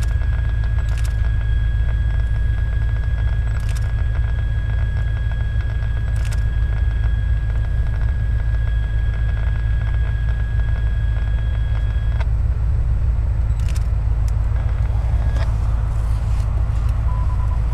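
Freight train rolling over a steel truss bridge at a distance: a steady low rumble, with a thin steady high squeal that stops about twelve seconds in and scattered sharp clicks.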